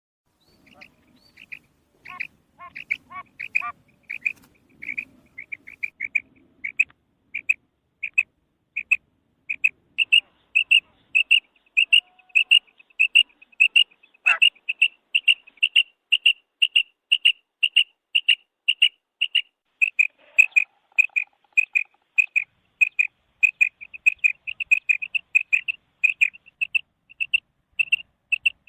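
Female quail calling: a long, even series of short, high call notes, about two to three a second, faint at first and loud and steady after the first several seconds. A single sharp click sounds about halfway through.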